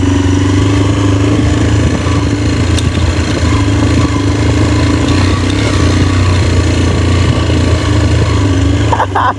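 Motorcycle engine running at a steady speed with a continuous drone and rushing noise. A few brief, higher-pitched sounds come near the end.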